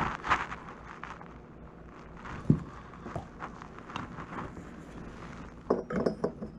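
Irregular knocks and clatter: a sharp knock about two and a half seconds in, a few lighter ticks, and a quick cluster of clatters near the end.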